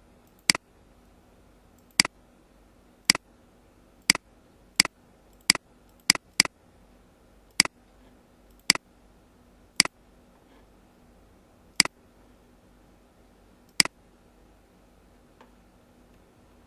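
Computer mouse clicking: about a dozen sharp single clicks at irregular intervals of roughly one to two seconds, over a faint steady hum.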